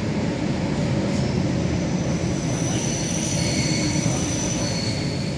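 ER2R electric multiple unit carriage running along the track, heard from inside: a steady rumble with thin high squealing tones that come in about a second in and fade near the end.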